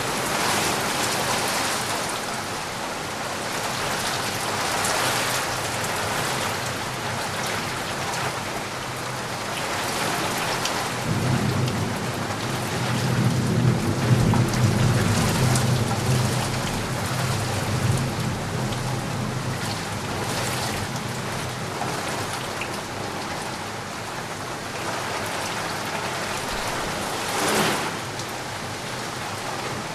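Steady rain, with a low rumble of thunder rolling in about a third of the way through and dying away over several seconds. A short sharp noise sounds near the end.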